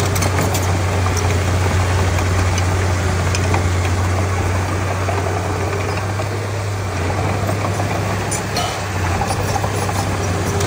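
Komatsu D31P bulldozer's diesel engine running steadily, with a constant low drone.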